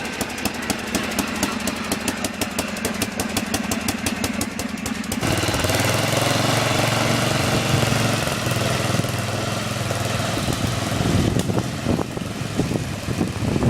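An engine running with a fast, even firing beat; about five seconds in the sound changes abruptly to a smoother, steadier tone.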